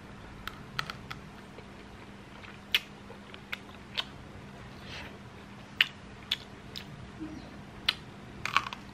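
A man biting and chewing a piece of grilled meat held at his mouth: about a dozen short, sharp mouth clicks from teeth and lips, scattered irregularly, with a quick cluster near the end, over a faint steady hum.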